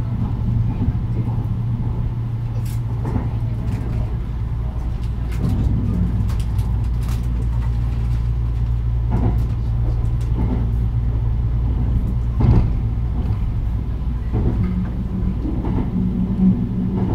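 Kintetsu 80000 series Hinotori electric limited express running at speed, heard from inside the car: a steady low rumble and hum from the wheels and running gear, with occasional short clacks from the track.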